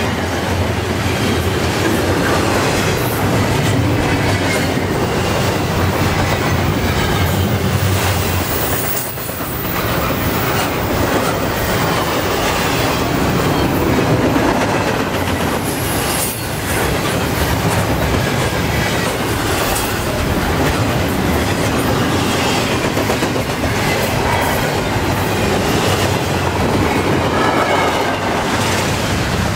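Double-stack intermodal well cars rolling past close by: a steady loud rumble of steel wheels on rail with clickety-clack over the joints, dipping briefly twice.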